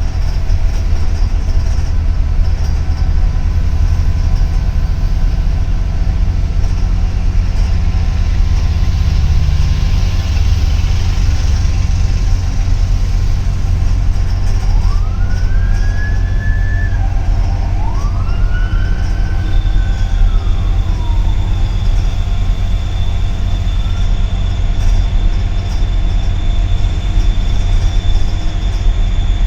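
Steady low rumble of a double-decker city bus's engine and running gear, heard from inside. About halfway through come two high wails, each rising, holding and falling away, and a thin steady high tone follows to the end.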